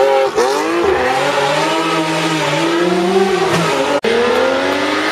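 Historic rally car's engine under hard acceleration on a special stage: quick dips and rises in revs in the first second, then a long steady climb in revs. There is a momentary break in the sound about four seconds in.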